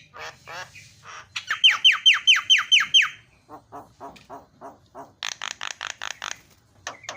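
Javan myna singing: a quick run of about eight falling whistles, followed by rapid chattering notes and a string of harsh, rasping notes.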